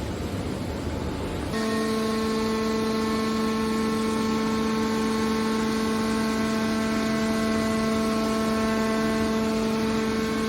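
Hydraulic metal baler running: a rumbling machine noise that changes abruptly about a second and a half in to a steady, even hum with several overtones, typical of the baler's hydraulic pump and motor.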